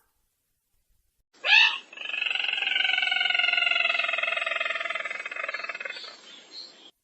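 Bird-trapping lure recording of the sintar merah's call: one sharp note, then a long, fast trill of about five seconds that slowly falls in pitch and fades near the end.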